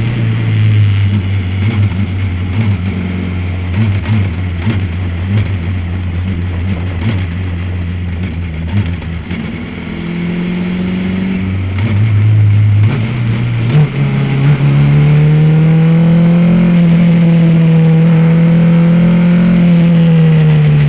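Race car engine at speed on a circuit. Its note sits lower and rises and falls unevenly for the first half, then climbs about two-thirds of the way in to a higher, steady pitch that is held with a slow swell almost to the end.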